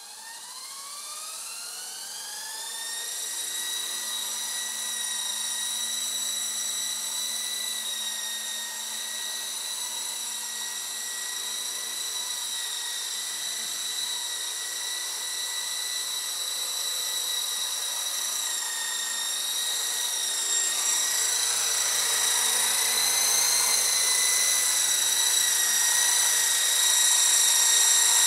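Esky Dauphin electric RC helicopter's motor and rotors spooling up, a whine rising in pitch over the first few seconds. It then holds a steady high whine that grows louder toward the end as the model comes nearer.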